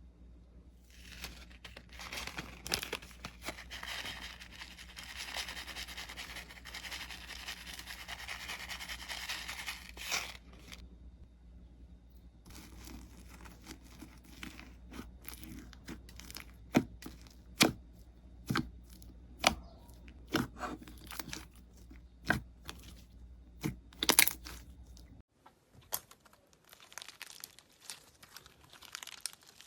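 Slime being squeezed and worked by hand: about ten seconds of dense, fine crackling, then a string of sharp separate pops. After an edit, more crackling from another slime clip.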